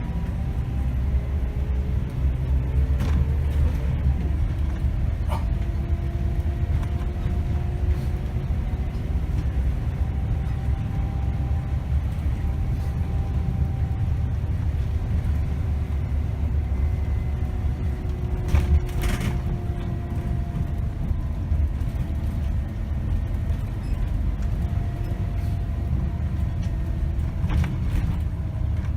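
Interior of a 2008 Scania K270 city bus under way: a steady low diesel engine and road rumble, with a drivetrain whine that slowly rises and falls in pitch as the bus speeds up and slows. Occasional short rattles and clicks from the bus, the loudest about two-thirds of the way through.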